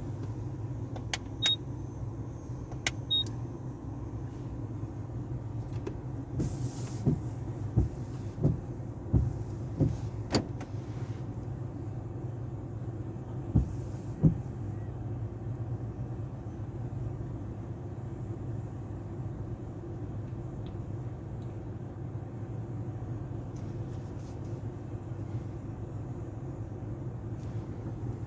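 Tunnel car wash equipment running, heard from inside a car as it rides through: a steady low drone, with a run of loud dull knocks about a quarter to halfway through as the equipment works on the car.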